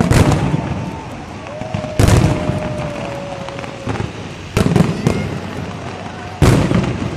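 Aerial fireworks display: shells bursting with sharp bangs, one at the start, one about two seconds in, two close together around four and a half seconds, and one near the end, with crackling between the bursts.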